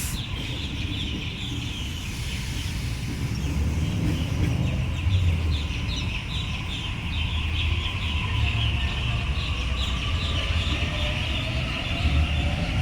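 A Sydney Trains Waratah electric train is running at the platform with a steady low rumble, and its motor whine rises near the end as it gathers speed. A run of short high chirps repeats about twice a second over the rumble.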